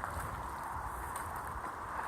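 Wind rumbling on the microphone over a steady wash of water around a paddle board, with faint irregular clicks and knocks.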